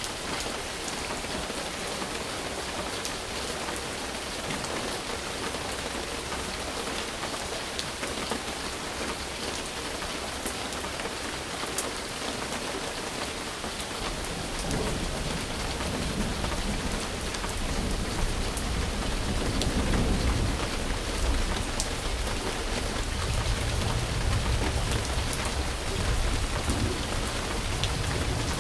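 Steady rain falling, with a low rumble of thunder coming in about halfway through and slowly building.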